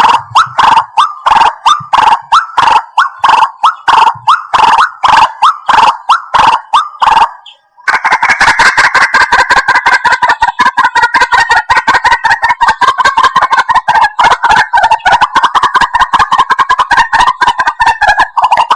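White-breasted waterhen calling: loud, evenly repeated notes about three or four a second, then a brief break, then a faster, unbroken run of calls from about eight seconds in.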